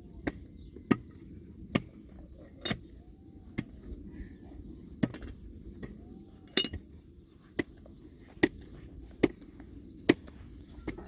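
Sharp clicks or light knocks, roughly one a second and not quite regular, over a steady low hum; the loudest comes just past the middle.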